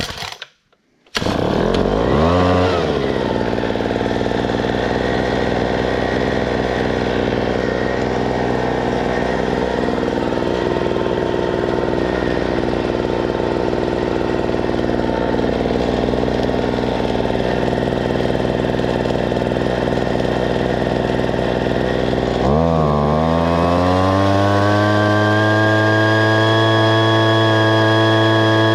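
Homelite two-stroke leaf blower engine pull-started: it catches about a second in and runs steadily, then revs up about 22 seconds in and holds at a higher speed. Its fan is rubbing against a plastic part because a washer was left out in reassembly, which the owner says made it not run right.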